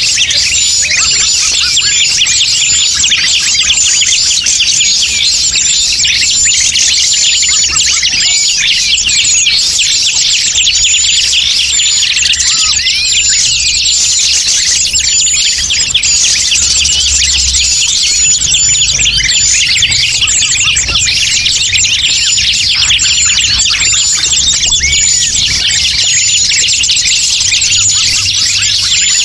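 Dense, continuous chorus of many small forest birds chirping and trilling over one another, with a short high note repeating about once a second; a bird-lure (pikat) recording meant to draw wild birds in.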